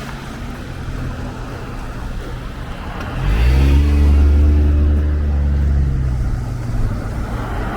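Street traffic, then about three seconds in a motor vehicle's engine accelerates and passes close, its low rumble the loudest sound for about three seconds before fading.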